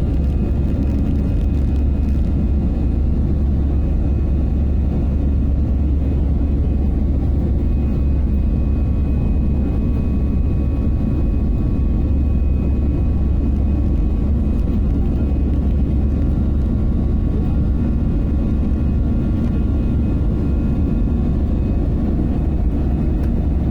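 Old airplane's engines running steadily at takeoff power: a constant deep drone with a few faint, steady whining tones above it.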